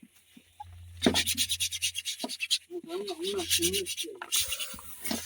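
Hand-scrubbing of a clothes dryer part during washing: a fast run of rubbing strokes that starts about a second in.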